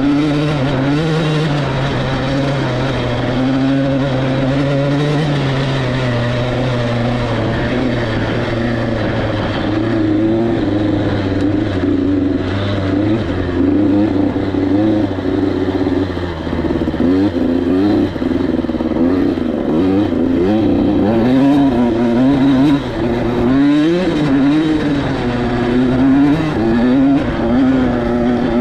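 KTM 85SX single-cylinder two-stroke dirt bike engine under way, running fairly steadily at first. From about a third of the way in, it revs up and down over and over as the throttle is worked on and off.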